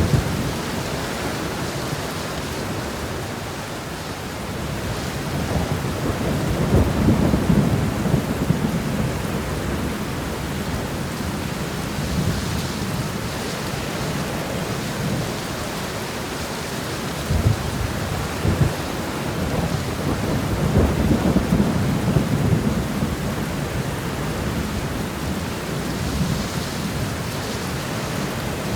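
Steady rain shower falling, with low rolls of thunder swelling up twice, about a quarter of the way in and again past the middle.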